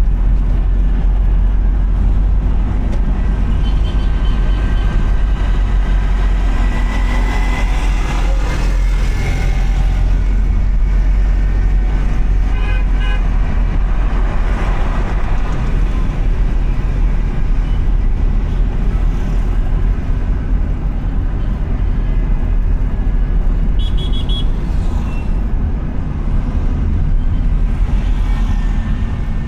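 Steady rumble of a car driving through town traffic, with road noise throughout. Short car horn toots sound twice, about halfway through and again later.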